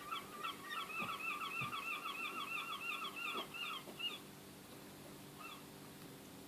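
Gull calling: a rapid series of short, pitched yelping notes, about six a second, that breaks off about four seconds in, with one last note shortly after.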